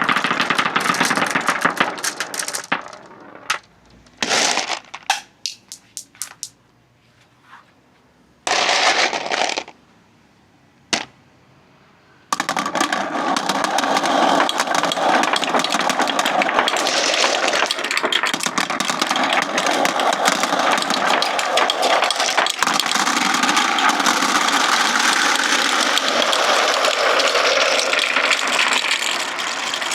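Many marbles rolling and clattering down a marble-run track: a dense rattle that thins to scattered clicks and short runs for several seconds, then a steady, dense clatter of many marbles from a little before halfway on.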